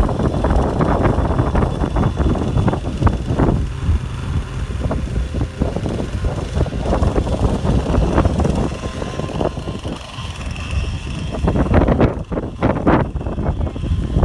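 Strong wind buffeting the microphone in gusts, with a faint steady high whine of a radio-controlled model plane that grows a little stronger near the end.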